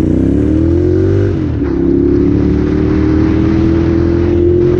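Ducati Monster 795's L-twin engine through a full titanium YRS exhaust, pulling hard in first gear. The engine note climbs, dips briefly about a second in, then holds high and rises slowly.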